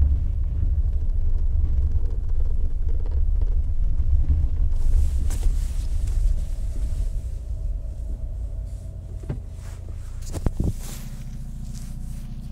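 Alfa Romeo 156 Cup race car's engine heard from inside the cabin, a loud low drone that eases off as the car slows. A few knocks come about ten seconds in, then the engine settles to a steady idle.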